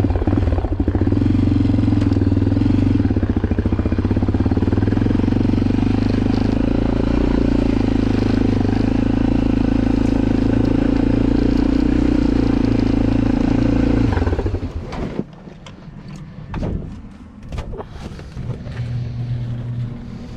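Single-cylinder engine running steadily at idle just after a choked cold start, then shutting off about fourteen seconds in, followed by quieter clatter and scraping.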